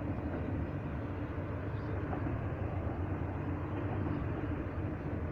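Intermodal freight train's container cars rolling past at a steady pace: a continuous rumble of wheels on the rails.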